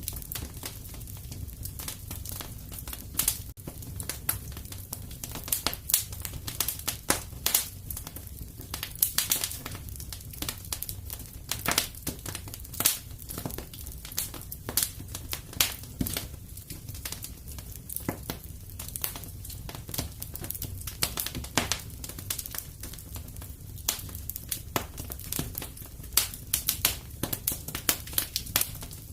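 Wood fire crackling in a fireplace: irregular sharp pops and snaps, thick and constant, over a steady low rumble.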